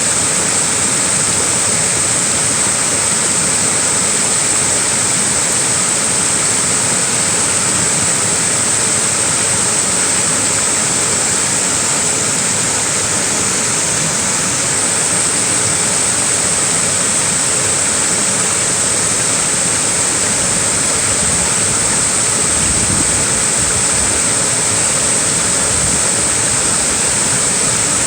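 Small waterfall: a steady, unbroken rush of falling, splashing water.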